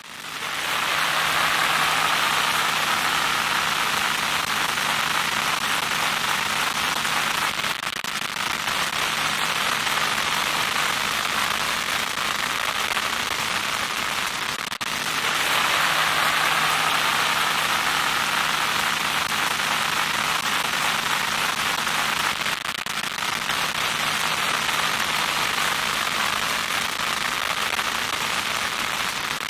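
Loud static noise: a steady hiss strongest in the upper-middle range, with a low steady hum beneath. The sound seems to repeat as a loop about every fifteen seconds.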